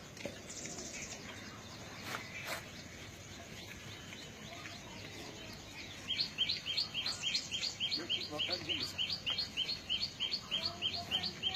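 A bird calling in a rapid, regular series of short high chirps, about three a second, starting about six seconds in, over quiet outdoor background noise.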